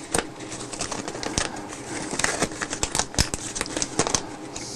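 Close handling of small parts and a small parts bag: irregular light clicks, taps and rustling as a bag of replacement servo gears is opened.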